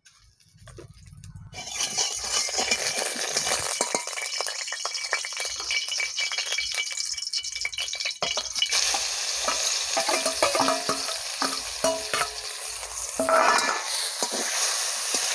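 Oil heating in a hot kadai hisses and spits; about eight seconds in, salted, turmeric-coated prawns are tipped in and the frying sizzle gets louder, with a metal spatula scraping and clinking against the pan as they are stirred.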